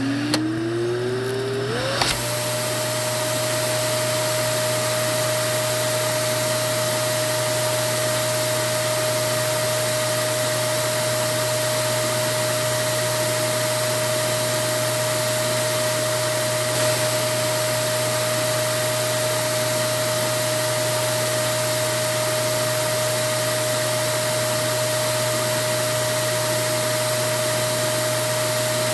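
Vacuum cleaner motor spinning up, its whine rising in pitch over the first two seconds, then running at full speed with a steady high whine over an even rushing hiss.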